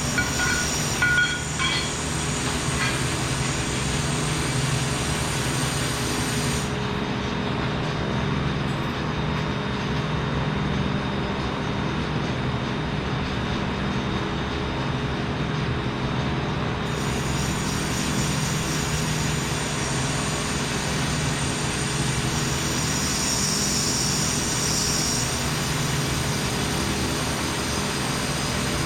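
Steady mechanical drone with a low hum, with a few short metallic clinks in the first couple of seconds.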